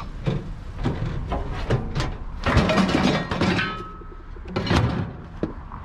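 Scrap metal and junk being pulled from a rubbish pile: a string of knocks and clinks, a loud jumbled clatter about two and a half seconds in that ends with a brief metallic ring, and another loud clank near the end.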